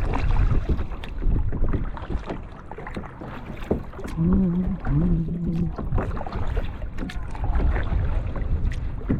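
Kayak paddle strokes splashing and dripping in calm water, with wind rumbling on the microphone. About four seconds in, a person gives two short hummed notes.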